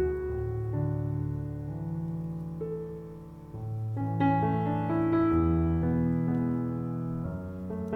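Background music: a piano playing slow, sustained chords and notes, dipping briefly a little past the middle before a new phrase comes in.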